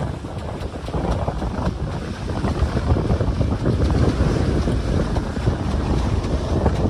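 Wind buffeting the microphone over rushing water aboard a sailing catamaran, in uneven gusts.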